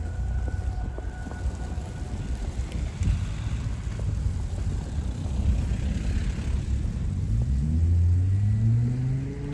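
A motor vehicle's engine running with a low rumble; in the last two seconds its note climbs as it accelerates.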